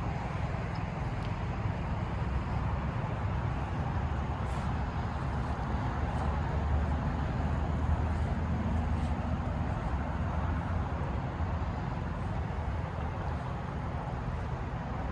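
Steady hum of passing road traffic, swelling a little louder as a vehicle goes by about halfway through.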